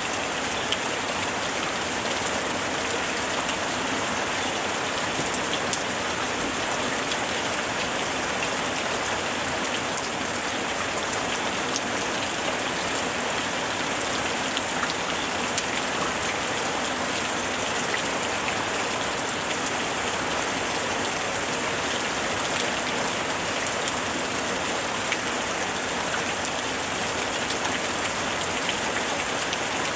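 Steady rain falling, with many small drops ticking sharply on hard surfaces over an even hiss.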